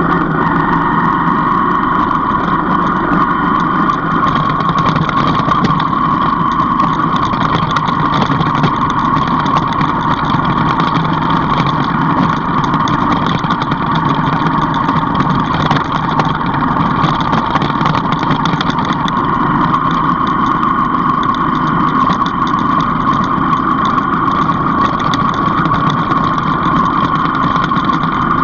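A vehicle's engine running steadily while driving, mixed with steady road and wind noise and no marked revving.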